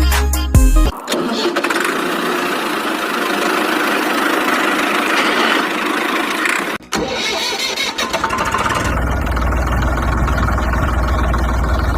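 An engine running steadily, cutting out briefly about seven seconds in, then running on with a deeper rumble.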